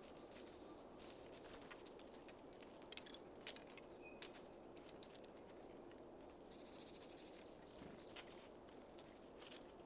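Small birds at a feeder: scattered light taps and clicks, with a few brief high chirps and a short buzzy call about seven seconds in, over a faint steady background.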